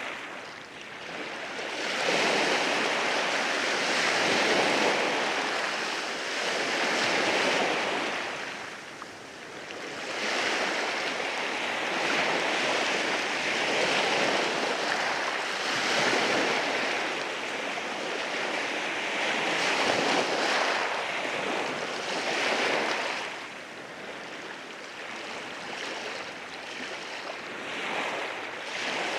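Sea waves washing in over rocks: a continuous rush of surf that swells and eases every few seconds, with quieter lulls around nine seconds in and again for a few seconds past twenty.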